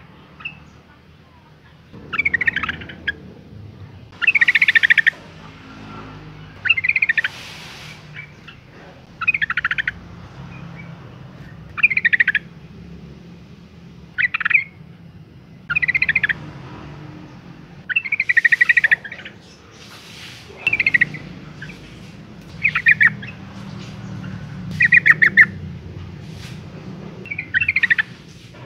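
Yellow-vented bulbul calling in short bursts of rapid chattering notes, about one burst every two seconds. It is presented as a female in breeding condition calling for a male.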